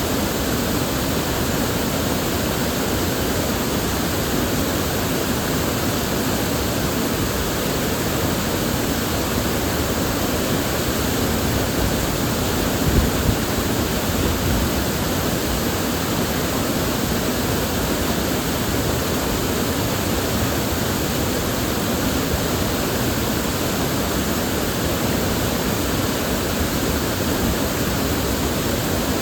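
River water flowing and rushing in a steady, even wash, with one brief louder moment about halfway through.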